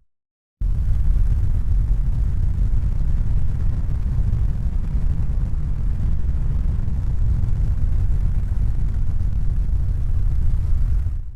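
Steady low rumbling noise with its weight deep in the bass. It cuts in abruptly after a brief silence and fades out near the end.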